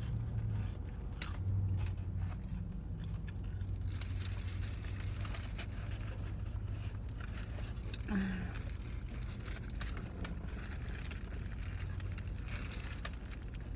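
Chewing and small crackles of food packaging inside a car, over a steady low hum from the car. A brief low hum-like mouth sound about eight seconds in.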